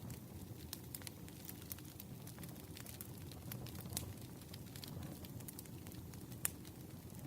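Wood bonfire crackling: frequent sharp pops and snaps from the burning logs over a low steady rumble, with one louder pop near the end.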